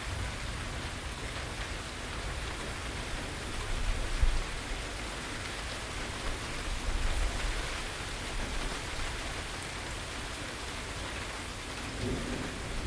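Steady rain falling on the porch and its surroundings, an even hiss of many drops, with two short low rumbles about four and seven seconds in.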